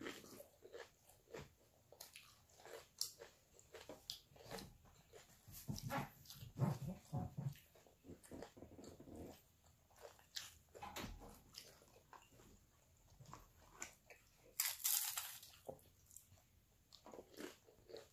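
Close-up eating sounds: chewing and irregular short crunches of tortilla chips and fried chicken nuggets, with a louder burst of crunching about fifteen seconds in.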